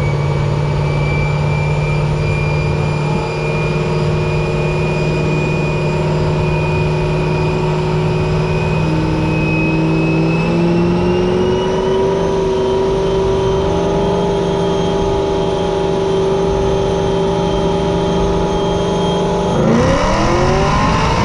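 A motor vehicle's engine held at a high, steady speed, its pitch creeping slowly upward, then revving up sharply near the end.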